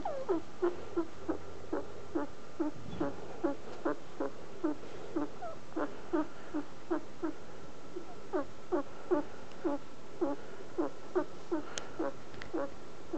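Pet guinea pig making a short, pitched call over and over at a steady pace of about three a second. It is the persistent, unusual noise that worries its owner.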